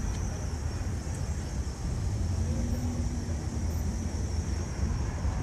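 Intermodal freight train cars rolling past on the rails with a steady low rumble.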